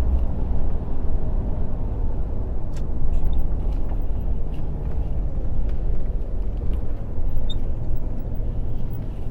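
Lorry running on the road, a steady low rumble of engine and road noise.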